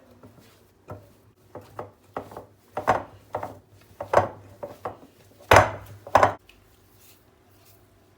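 A series of irregular knocks and scrapes, about a dozen over five seconds, with the loudest pair near the end, typical of kitchen work on a wooden surface.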